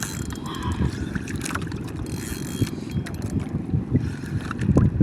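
Water slapping against the hull of a small wooden fishing boat, heard as an irregular low rumble of soft thumps, with wind buffeting the microphone.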